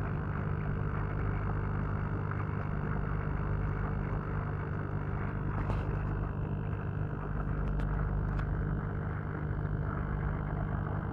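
LK60 electromagnetic air compressor running with a steady low hum, with air bubbling and water gurgling up through a pond airlift tube.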